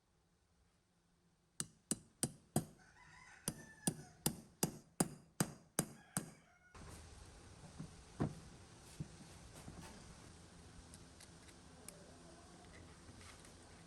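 About a dozen sharp hammer blows on metal, roughly two a second, with a rooster crowing in the background. About seven seconds in the blows stop and a steady low hum takes over, with a few lighter knocks.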